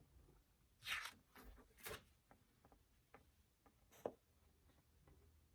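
Near silence in a small room, broken by three faint short rustles and taps from a picture book being handled and its pages turned.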